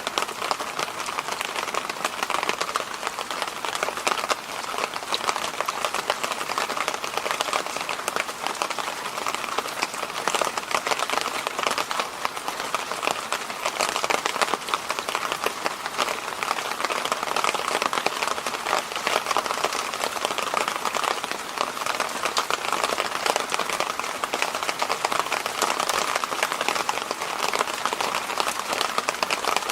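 Electric fan running steadily: a continuous airy rushing hiss, strongest in the middle and upper range, with a fine crackly grain and no change throughout.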